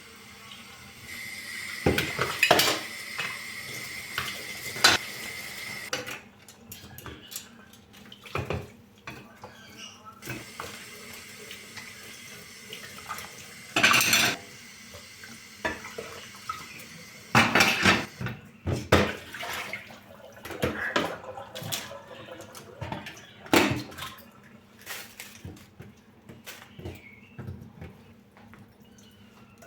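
Dishes and cutlery clattering at a kitchen sink, with a tap running for the first few seconds, then scattered clinks and knocks as dishes are handled.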